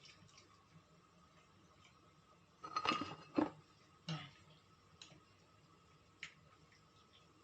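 Kitchenware clinking and knocking while milk is added to the soup pot: a quick cluster of knocks about three seconds in, another a second later, then a few faint clicks.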